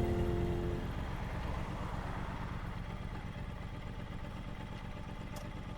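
Triumph Bonneville T120's parallel-twin engine running steadily at low revs, with a single light click near the end.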